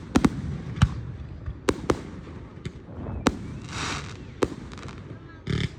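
Fireworks going off: about ten sharp bangs at irregular intervals, with a hissing burst about four seconds in and a louder, fuller burst near the end.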